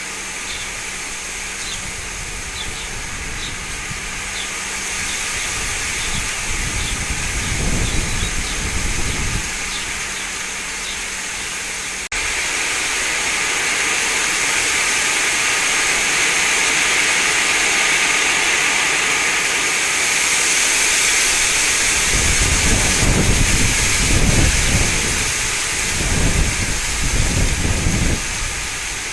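Wind rushing through garden trees and shrubs, a steady hiss of moving leaves, with gusts buffeting the microphone in low rumbles about a third of the way in and again for several seconds near the end.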